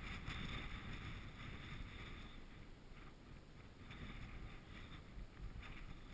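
Strong wind buffeting the microphone, a rough low rumble with gusts of hiss that swell and fade.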